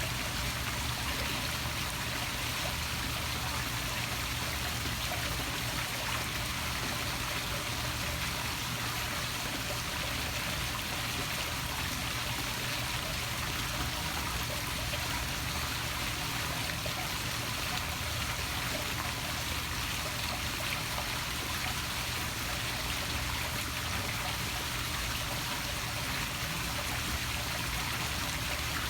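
Poolside waterfall splashing steadily into a swimming pool: a continuous, even rush of falling water.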